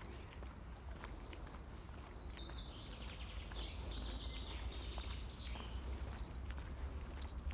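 A songbird singing a fast, descending run of short high notes, followed by a few more seconds of twittering, over soft footsteps on a dirt forest path and a steady low rumble.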